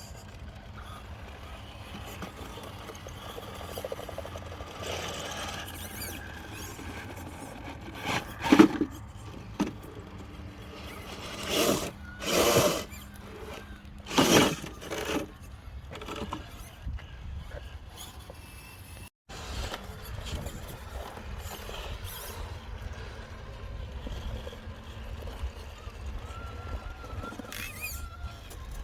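Radio-controlled truck's motor revving in short surges as it is driven, loudest three times, about 8, 12 and 14 seconds in, over a steady low rumble.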